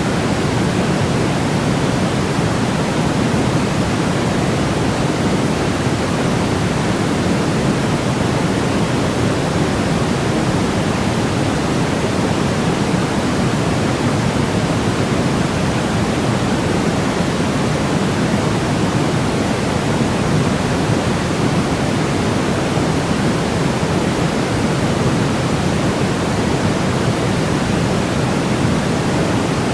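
Baby-sleep white-noise track: a constant, even hiss that never changes, deeper-toned than a bright hiss, with most of its weight in the low and middle range.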